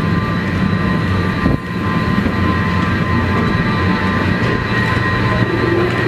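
Steady rumble and hum of a moving vehicle heard from inside, with several steady high-pitched tones over it. A brief knock comes about a second and a half in.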